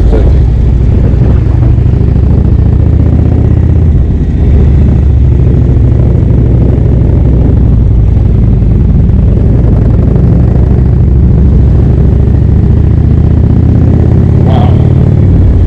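Indian motorcycle's V-twin engine running at road speed under way. Its note dips briefly about four seconds in and rises in pitch near the end.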